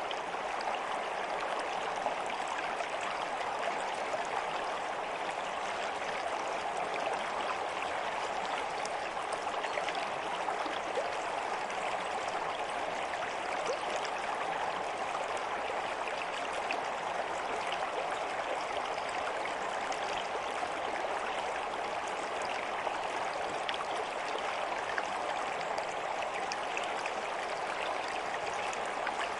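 A stream of water running steadily, a continuous babble with small splashes and no change in level.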